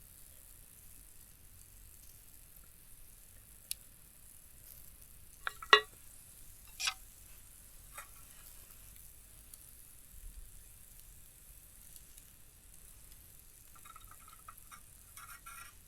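A few scattered sharp clicks and knocks of cooking utensils and cookware being handled, the loudest a double knock about six seconds in, with a quick run of light taps near the end.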